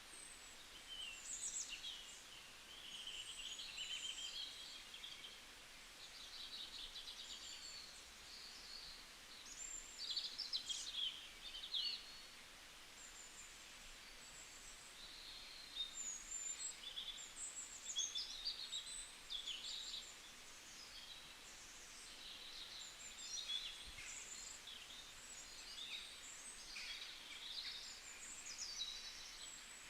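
Several small birds singing: quick high chirps, trills and whistled sweeps, one after another throughout, over faint steady background noise.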